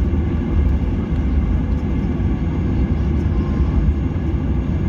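Airliner cabin noise: a steady low rumble of jet engines and airflow heard from inside the passenger cabin, with faint steady tones over it.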